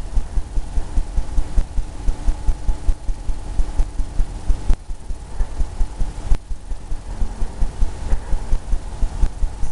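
Oil-paint brush dabbing and scrubbing back and forth on a canvas on an easel, making a steady run of dull low thumps, about four a second, while painting sea foam.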